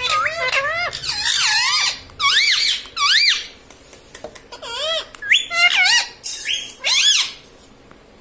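A parrot calling in a run of about seven shrill, warbling squeaks, each sliding rapidly up and down in pitch, with short gaps between them.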